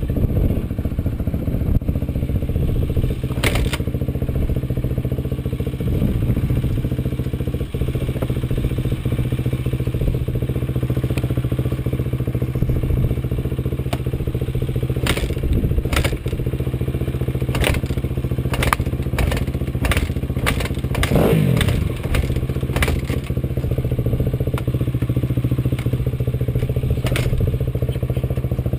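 Off-road vehicle engine running steadily while riding over rough ground, with scattered sharp knocks and rattles, most of them in the second half.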